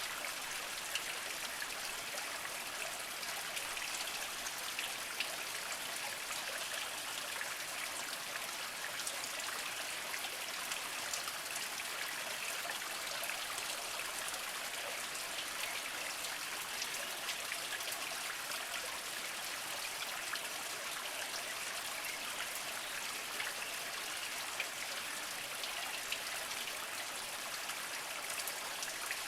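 Small spring water trickling and splashing over mossy rocks: a steady, even babble with many small drips.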